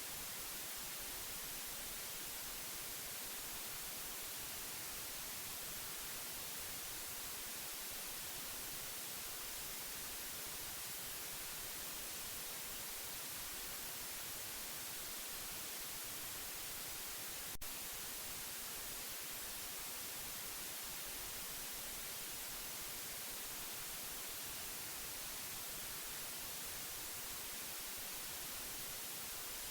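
Steady white noise: an even, unchanging hiss, strongest in the high frequencies. There is a single brief click about two-thirds of the way through.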